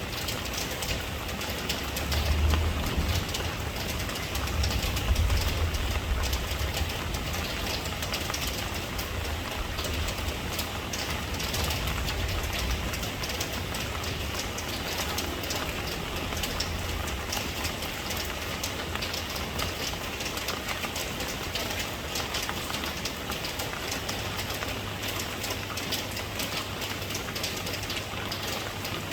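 Steady rain, a dense hiss of many drops, with a low rumble underneath that is strongest in the first half.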